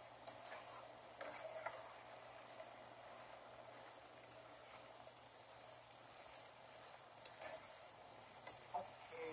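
Chicken cubes frying in oil in a pan, a steady sizzle, with a few sharp clicks.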